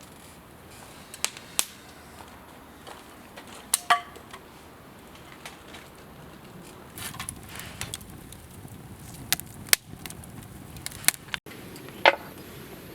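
Wood campfire crackling, with irregular sharp pops and snaps, a few of them loud.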